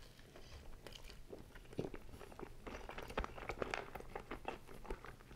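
A person chewing and crunching a piece of cheesy naan bread dipped in shakshuka, picked up close on a clip-on microphone: a run of small, irregular crunches and wet mouth clicks.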